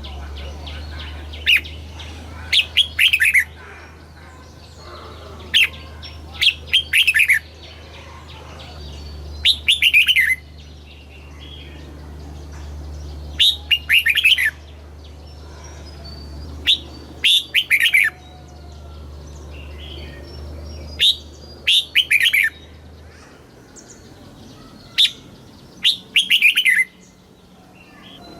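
Red-whiskered bulbul singing: short, loud, bright phrases of quick falling notes, repeated every few seconds. A low steady hum underneath cuts off about three-quarters of the way through.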